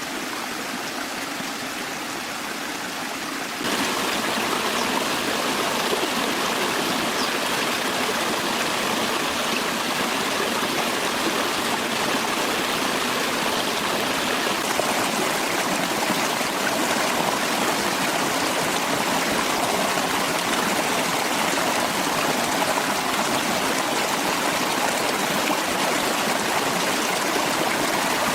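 Forest stream flowing steadily, an even rush of water that gets louder about four seconds in.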